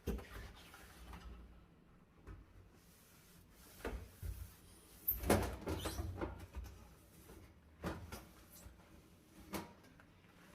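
Scattered knocks and clatters of kitchen items being handled and set down during cleaning, about five separate bouts with a short cluster in the middle.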